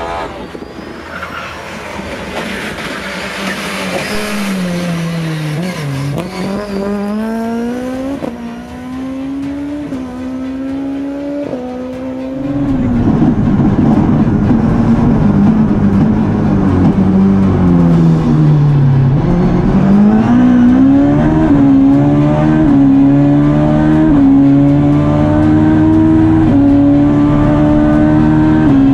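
Ford Fiesta rally car's engine driven hard. Twice the revs fall away for a corner, then climb through a quick run of upshifts. It is much louder from about halfway on.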